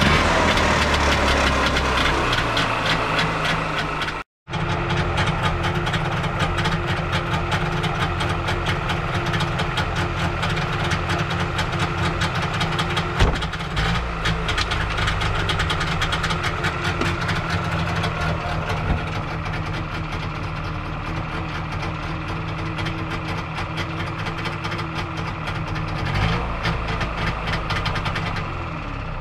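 Trabant P601's air-cooled two-stroke twin-cylinder engine running steadily with its fast, even firing beat. The sound drops out for a moment about four seconds in, then the engine runs on.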